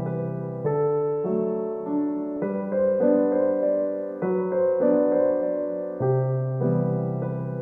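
Background music: a piano-like keyboard playing sustained chords and notes, changing about every half second in a calm, even flow.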